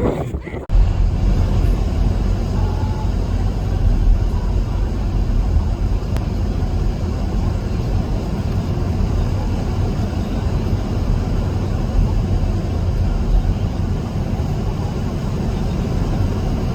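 Strong windstorm wind blowing steadily across the microphone, a loud, low rumbling that starts abruptly less than a second in.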